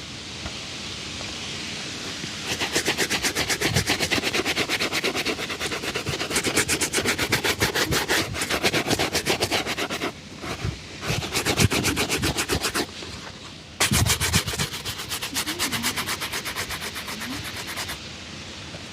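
Rapid back-and-forth shoe-shine strokes over a leather shoe, about ten a second. They come in three long runs, with short pauses about ten and thirteen seconds in.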